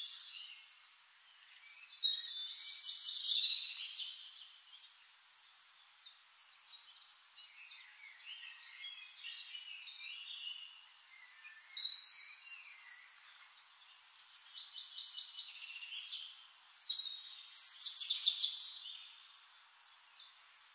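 Songbirds singing and chirping: three louder song phrases, a few seconds in, about midway and near the end, with quieter chirps and trills between.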